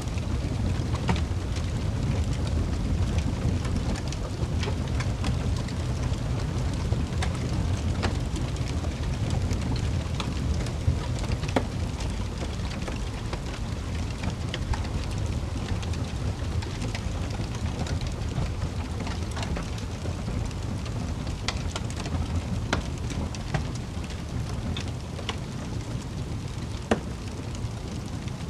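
Wood fire in a fireplace crackling, with scattered sharp pops over a steady low rumble of flames.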